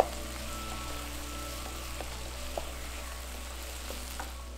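Chicken, onion, carrot and shimeji mushrooms sizzling in a pot while being stirred with a wooden spatula. There is a steady hiss, with a scattering of light clicks from the spatula against the pot.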